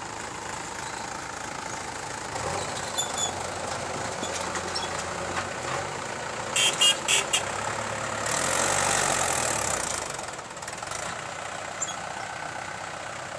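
Diesel engines of a JCB 3DX backhoe loader and a tractor running steadily during mud loading. About four sharp metallic clanks come in quick succession around the middle and are the loudest sounds. A broad rush of noise swells up and dies away shortly after.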